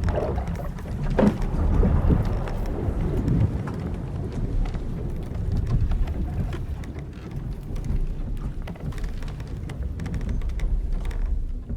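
Old wooden sailing ship at sea: a low rumbling wash of wind and waves that swells and eases, with the hull timbers and rigging creaking and knocking now and then, one creak standing out about a second in.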